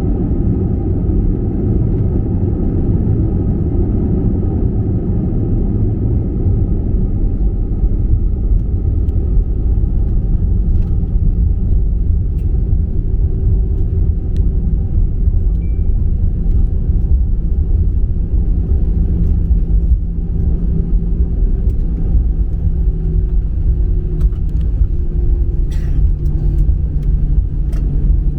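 Cabin noise inside an Airbus A320: a steady, loud low rumble of the jet engines and airflow. About halfway through, a faint engine tone comes in and shifts in pitch, and a few faint clicks sound near the end.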